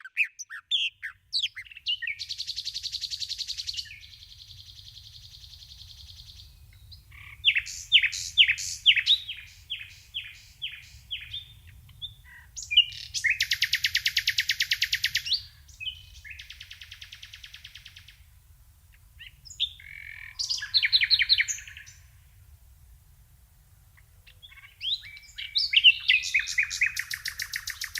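Songbirds singing in a string of separate phrases: fast high trills, rapid buzzy runs of repeated notes and series of sharp down-slurred chirps, with short pauses between them. A faint low rumble lies underneath.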